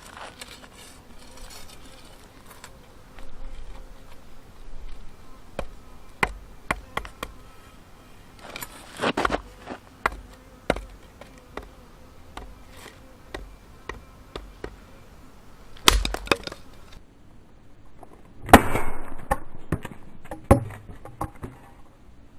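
Bladed chopping tool striking firewood in a run of sharp blows. The heaviest come about nine and sixteen seconds in, and a hard blow at about eighteen and a half seconds is followed by a second of wood cracking and splitting.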